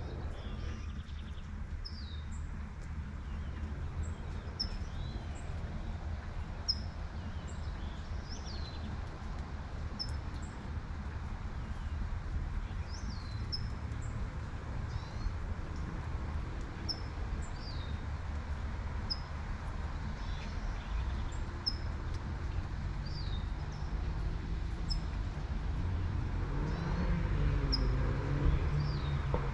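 Small birds chirping in short, high, repeated notes over a steady low traffic rumble and the hiss of light rain. Near the end a passing car swells louder, then fades.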